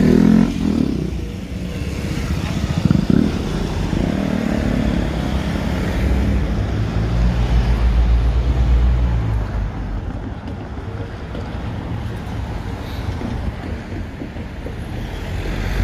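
Vehicles passing, a low rumble that swells and fades about six to nine seconds in, with wind noise on the microphone.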